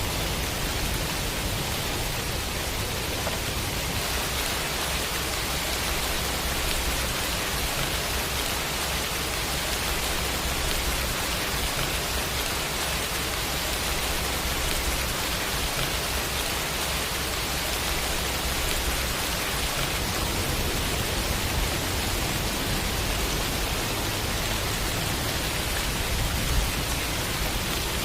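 Steady, unbroken rain ambience, an even hiss of rainfall with a low rumble underneath.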